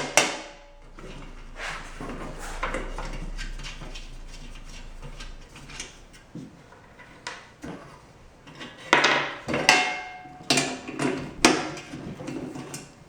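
Metal clinks and knocks from a 10mm socket and the metal parts of a Rubi tile snap cutter being handled during unbolting, scattered at first and then bunched together about nine seconds in, a few of them ringing briefly.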